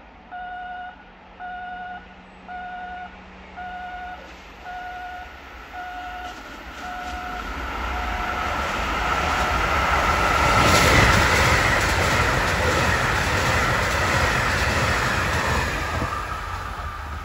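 An electronic warning bell dings about twice a second and fades out, while a train comes out of a tunnel and runs through the station without stopping. Its rushing rail noise builds to its loudest about eleven seconds in and stays loud as the train passes close by.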